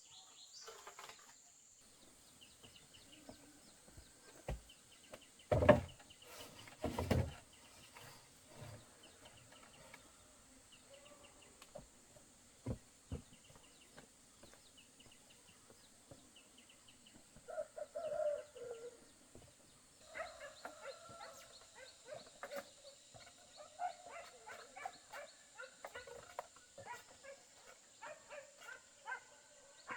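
Outdoor rural sound with a steady high insect drone. Two loud knocks come about five and seven seconds in. In the second half there are many short clicks and animal calls.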